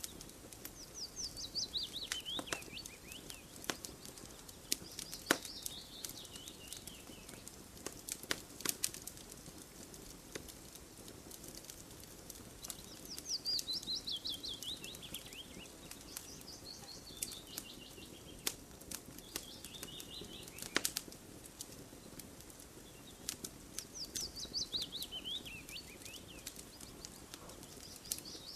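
Campfire crackling with scattered sharp pops, while a songbird repeats a short song of quick high notes that fall in pitch, every few seconds.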